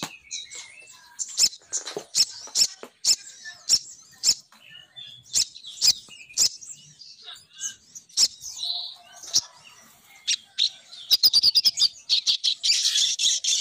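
Female crimson sunbird (sogon) calls played as a bird lure: sharp high chips and short twitters at irregular intervals, breaking into a fast run of chips and a dense twittering chatter near the end.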